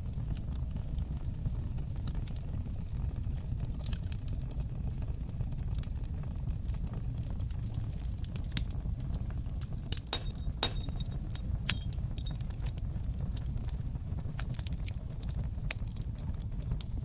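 Fire in a fireplace crackling, with a steady low rumble of the flames under scattered sharp pops. A quick cluster of pops comes a little past the middle, and one loud pop follows about two-thirds of the way through.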